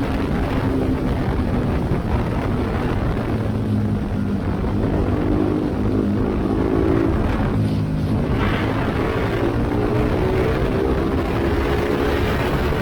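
BMW G310GS single-cylinder engine running under way through an Akrapovic exhaust with the silencer insert removed, its note rising and falling with the throttle, dipping about seven and a half seconds in and climbing again. Wind rushes over the microphone throughout.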